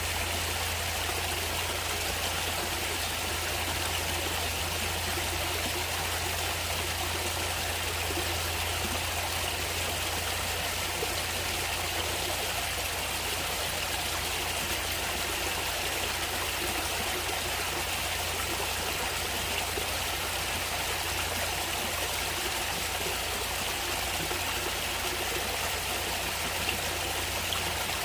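A natural stream of running water, flowing steadily and evenly, with a steady low hum underneath.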